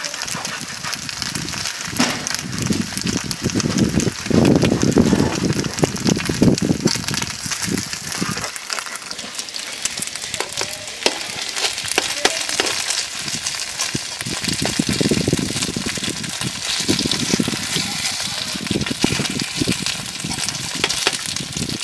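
Chive-filled rice cakes sizzling in oil on a large flat metal pan, with a metal spatula scraping and clicking against the pan as the cakes are moved. A low rumble comes and goes under the sizzle.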